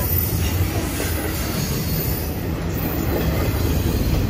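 BNSF double-stack intermodal freight train passing close at speed: a steady rumble and clatter of wheels on rail, with faint wavering wheel squeal.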